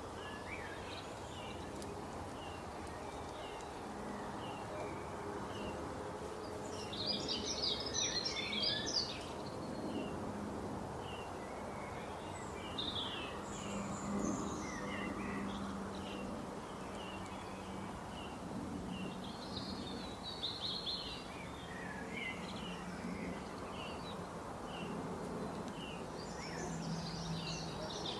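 Wild birds calling and singing: one bird repeats a short chirp about once a second, while others break in with brief bursts of song several times, over a steady low background rush.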